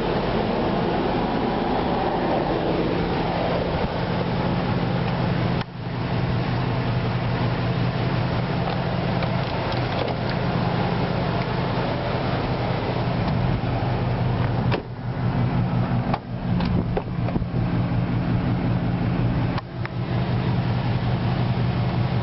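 A vehicle engine running with a steady low hum, with a falling whine in the first few seconds and a few sudden short dropouts in the sound.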